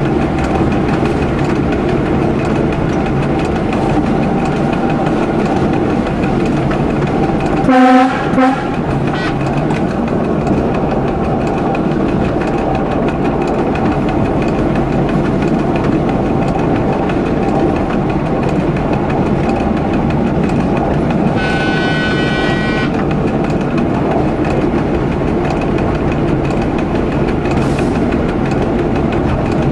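Diesel railcar running along a branch line, heard from the driver's cab as a steady rumble with some clickety-clack of the wheels. About eight seconds in, the horn sounds in two short blasts. A higher-pitched tone of about a second and a half comes later.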